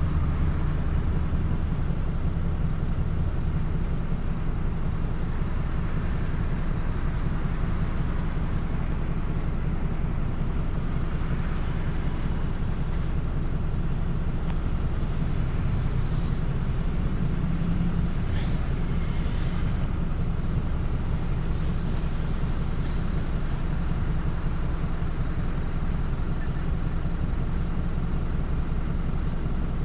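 City bus under way: its engine drones steadily low, with road and running noise.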